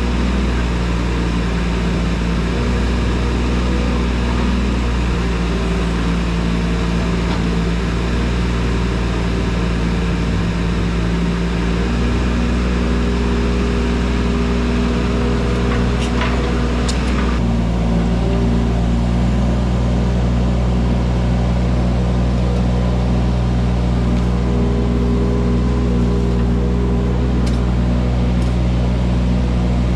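Wacker Neuson mini excavator's diesel engine running steadily while it works. A little over halfway through, a couple of sharp clacks come just before the engine's tone shifts.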